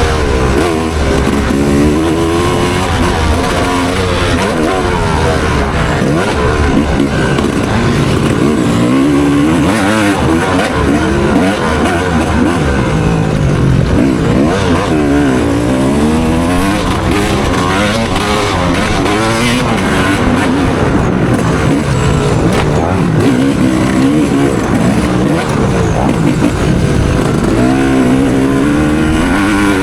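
Dirt bike engine revving hard up and down under racing, its pitch rising and falling again and again every second or two.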